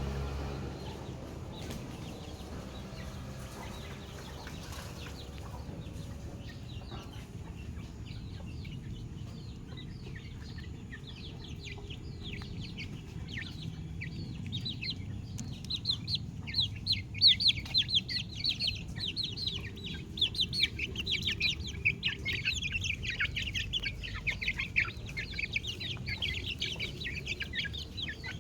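Young chicks peeping: many short, high-pitched, falling cheeps, few at first and swelling into a dense, continuous chorus about halfway through, over a low steady rumble.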